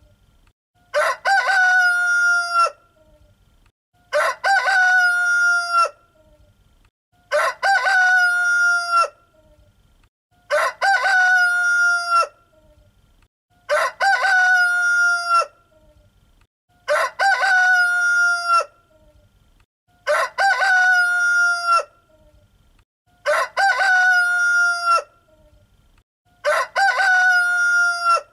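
A rooster crowing over and over: nine cock-a-doodle-doos, one about every three seconds, each the same length and shape, with quiet gaps between.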